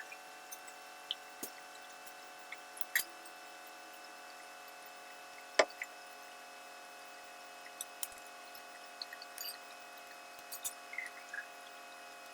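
Scattered light clicks and metal knocks of hand tools at work on a truck air compressor, the loudest about five and a half seconds in, over a steady hum.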